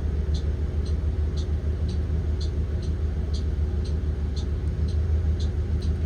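Blue Bird Vision school bus's Ford 7.3L V8 engine running, heard from inside the cabin as a steady low rumble. A light, even ticking sounds about twice a second over it.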